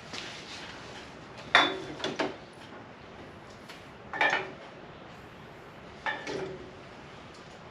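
Hand-tool and spray-can handling while penetrating oil goes onto stuck fender screws: three short clinking, clattering bursts about two seconds apart.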